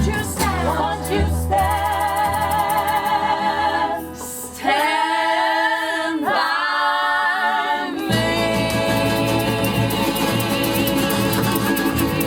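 A vocal group holds long close-harmony chords with vibrato over a band backing. About four seconds in the low accompaniment drops out, leaving the voices alone, and it comes back about eight seconds in.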